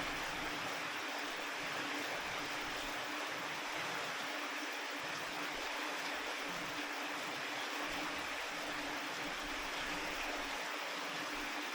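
Steady rain falling, an even hiss with no letup or change, with a faint steady hum underneath.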